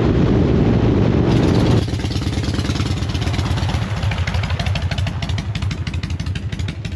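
Motorcycle engine running with a loud rush while riding. Nearly two seconds in, the rush drops away and the engine settles into an even, pulsing idle.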